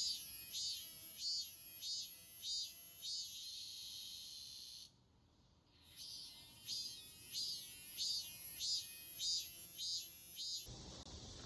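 Cicadas singing: a high, pulsing call repeating about twice a second over a steady high hiss. It stops for about a second midway and then resumes.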